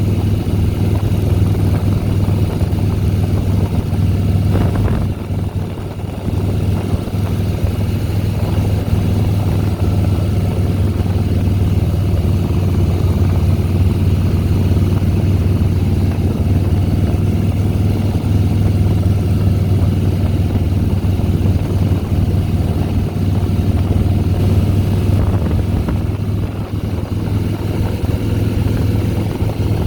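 2010 Harley-Davidson Softail Deluxe's air-cooled V-twin engine running steadily under way, a low, even drone, with a brief dip in loudness about five seconds in.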